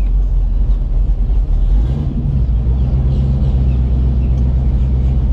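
Camaro's engine running at low revs, heard from inside the car, as the manual-transmission car creeps along in first gear. The engine note shifts slightly about two seconds in.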